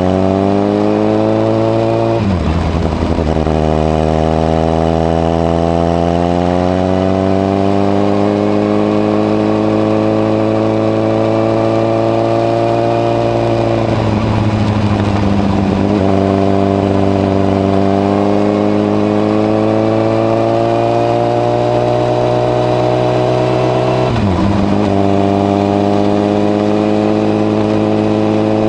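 Honda CBR1000RR (SC57) inline-four engine under way through a modified Moriwaki exhaust with its baffle fitted, the note climbing slowly in pitch as the bike pulls, broken three times by brief gaps, about 2, 14 and 24 seconds in.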